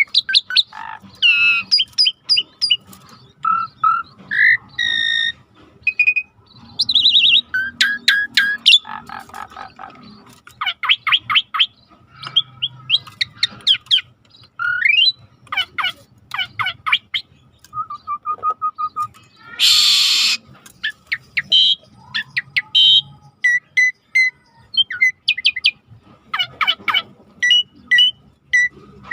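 Songbird masteran recording of starling song: a rapid, varied string of whistles, trills, chatter and repeated chirps, with a short harsh noisy burst about two-thirds of the way through. A faint river ambience runs underneath.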